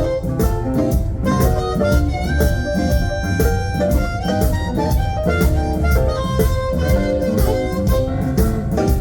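Live blues band playing an instrumental passage, with no singing.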